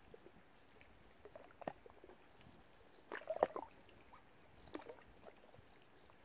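Small wet splashes and clicks at the water's surface, with a quick cluster about halfway through that is the loudest part.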